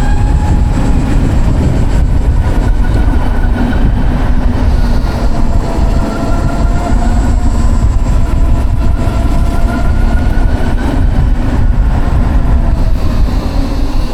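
A Savic C3 electric motorcycle's permanent-magnet motor whining while riding, its pitch slowly rising and falling with speed. Heavy wind rumble on the microphone sits under it.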